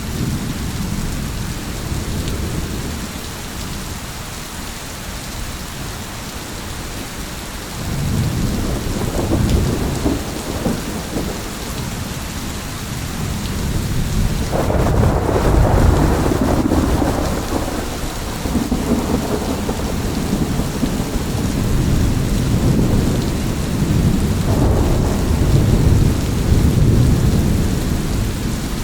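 Steady heavy rain with rolling thunder: low rumbles swell up about a third of the way in, and a louder, longer roll of thunder breaks about halfway through, with another swell near the end.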